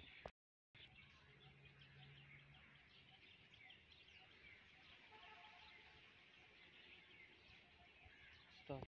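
Near silence: faint outdoor background with small birds chirping thinly throughout. A faint low hum sounds for a second or two about a second in, and there is a brief gap of dead silence just after the start.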